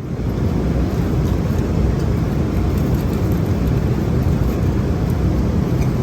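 Steady airliner cabin noise in cruise: the low rushing of engines and airflow, with most of its weight in the low range.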